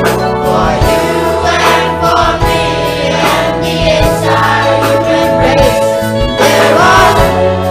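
Choir singing with instrumental accompaniment under steady held bass notes.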